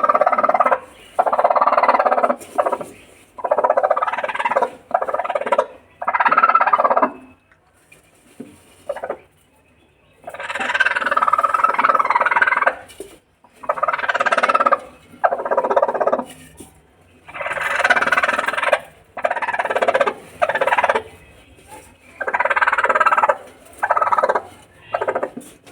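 Chickens squawking loudly in repeated bursts about a second long, with short pauses between them and a quieter spell about eight seconds in.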